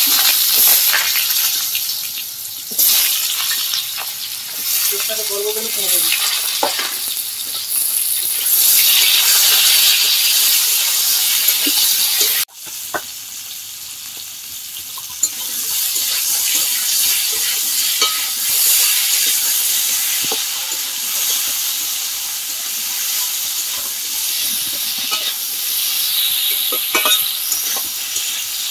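Potato wedges and green banana pieces sizzling as they fry in mustard oil in a metal kadai, with frequent scrapes and knocks of a metal spatula turning them. The sizzle drops suddenly about halfway through, then builds again.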